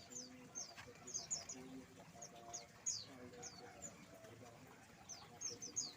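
A flock of small aviary birds chirping faintly: many short, high notes that slide downward, scattered irregularly and overlapping, with short low notes beneath.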